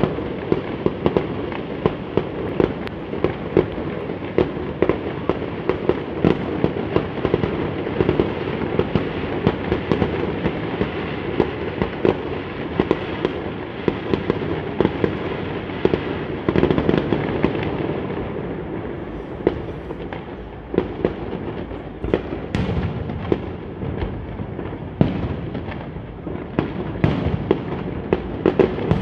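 Fireworks going off in a dense, continuous barrage of bangs and crackling. About two-thirds of the way in the crackle thins and separate sharp bangs stand out.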